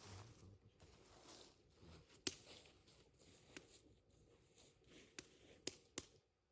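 Faint campfire crackle: a low hiss of burning with a handful of sharp pops, the loudest about two seconds in and several more near the end.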